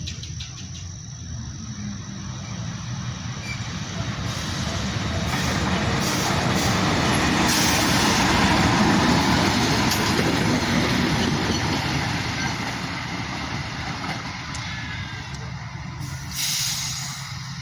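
A train passing by, its wheels running over the rails; the noise swells to a peak about halfway and then fades. Near the end there is a short hiss.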